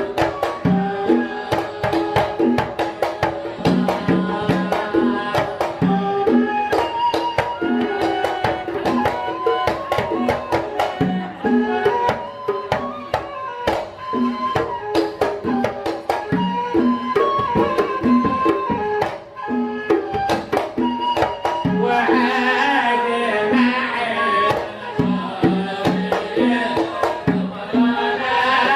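Devotional samaa song: a sung melody over a quick, steady hand-drum rhythm, growing fuller about two thirds of the way through.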